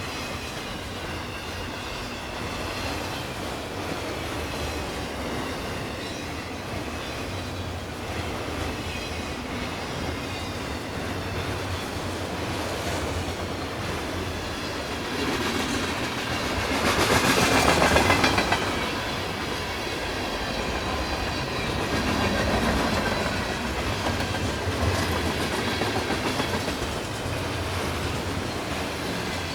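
CN freight train's cars rolling past, wheels clicking over the rail joints with faint high wheel squeal. It gets louder for a moment about two-thirds of the way through.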